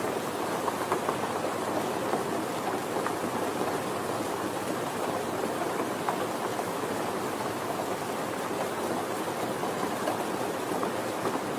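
Steady soft rainfall, an even hiss with scattered faint drop ticks.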